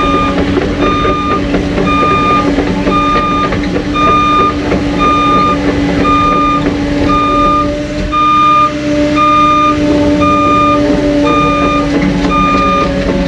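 Reverse alarm on a Cat 259D3 compact track loader beeping steadily, about one beep a second, over the machine's steady-running diesel engine as it backs up.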